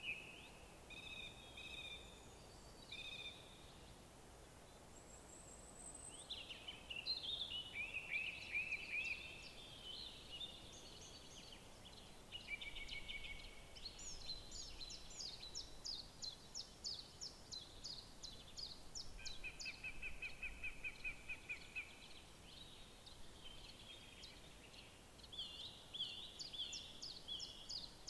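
Several woodland songbirds singing over one another in varied chirping phrases, with a fast, even trill about twenty seconds in, over a faint steady background hiss.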